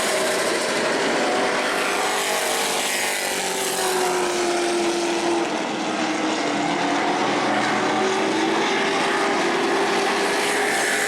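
A field of race trucks running at speed on a short asphalt oval: a steady, dense engine drone, with several engine pitches slowly rising and falling as the trucks circulate.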